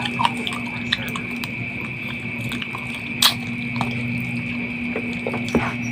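Wet, close-up mouth sounds of a man eating chicken and rice with his hands: chewing, lip smacks and finger-sucking, heard as scattered small clicks with one sharper smack about three seconds in. A steady background hum runs underneath.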